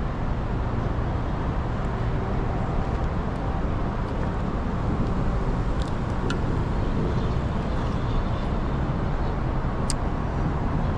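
Steady rumble of road traffic passing nearby, with a few faint sharp clicks.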